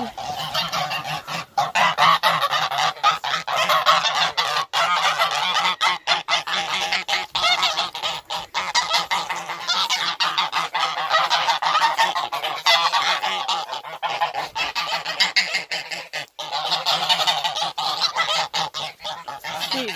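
A group of geese honking loudly and continuously, many calls overlapping.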